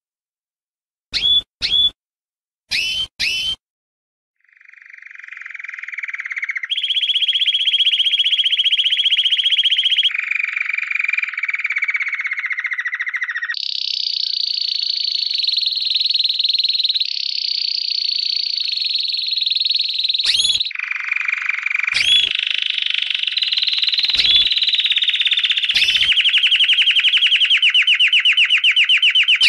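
Lovebird 'ngekek': after four short sharp chirps, a long unbroken rattling trill starts about four seconds in and runs on. Its pitch jumps abruptly up or down every few seconds, and a few sharp chirps break in over the second half.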